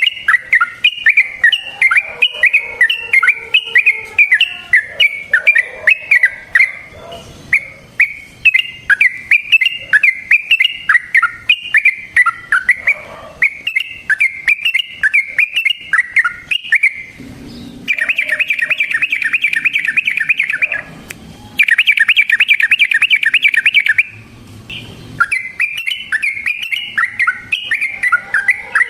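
Yellow-vented bulbul (trucukan) singing a long run of quick, bubbly chirping phrases. Past the middle come two rapid rattling trills, the first about three seconds long and the second a little shorter, before the chirping phrases return.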